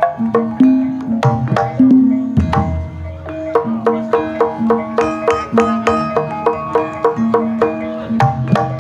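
Javanese gamelan playing Banyumasan-style gending: pitched struck instruments repeat quick note patterns over hand-drum strokes. Deep gong-like low notes sound about two and a half seconds in and again near the end.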